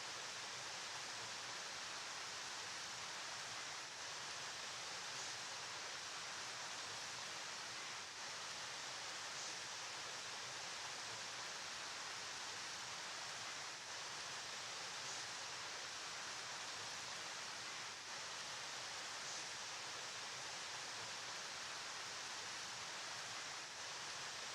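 Steady rushing of a flowing river, an even hiss-like wash of water with no distinct splashes, dipping slightly for a moment every few seconds.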